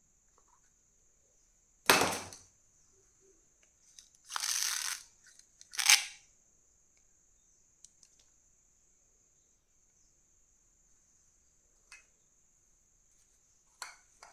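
Kinder Joy packaging handled and opened: a sharp crack, a short tearing rustle of the wrapper, a second sharp crack, then a few small plastic clicks, over a faint steady high whine.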